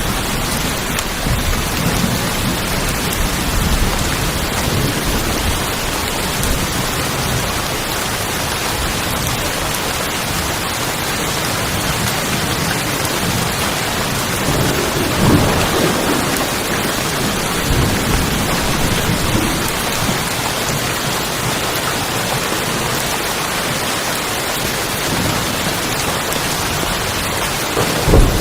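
Steady rain drumming on tin roofs, an even hiss of drops on metal sheeting. Low rumbles swell up under it near the start, about halfway through and again at the very end.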